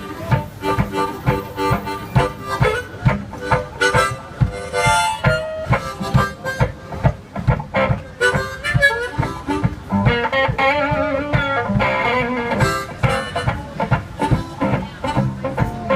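One-man band playing an instrumental blues passage: a harmonica solo with wavering held notes over guitar, kept in time by a steady beat of foot-worked percussion including a foot tambourine.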